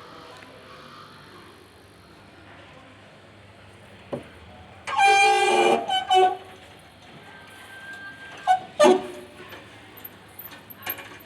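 Samsung washer dryer running on spin with worn-out drum bearings, a steady drone throughout. About five seconds in, a loud horn-like tone lasts about a second, and a couple of sharp knocks come near the nine-second mark.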